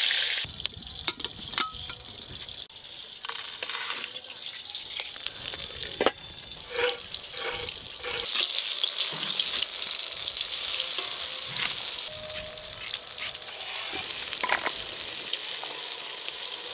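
Food frying in hot oil, a soft steady sizzle, with scattered clicks and knocks of utensils.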